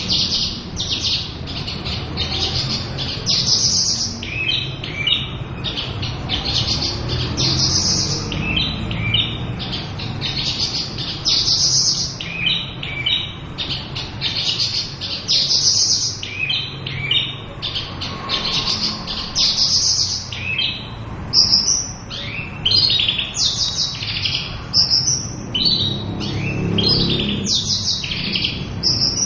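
Javan bush lark singing without a break: a fast, varied song of chirps, trills and buzzy notes, one short phrase after another.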